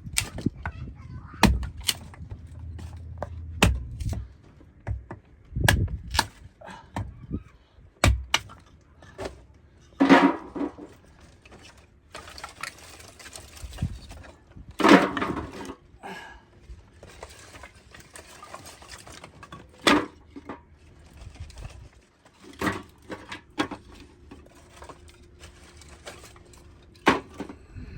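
Irregular sharp knocks and clatters, a few a second at most, with two short voice-like calls about ten and fifteen seconds in.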